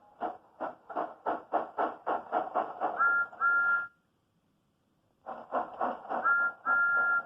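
Steam locomotive chuffing steadily faster, with a two-note whistle sounding twice in quick succession. The sound breaks off for about a second, then the chuffing and two more whistle toots resume.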